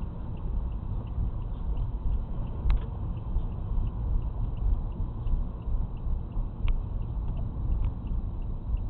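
Steady low rumble of a car's road and engine noise, with two sharp clicks, one about a third of the way in and one about three quarters in.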